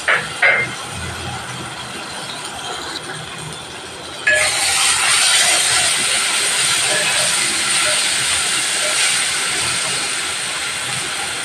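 Fried onions and ginger-garlic paste sizzling in hot oil in a metal pot as they are stirred with a spatula. Two short knocks near the start, then the sizzle suddenly grows louder about four seconds in and stays steady.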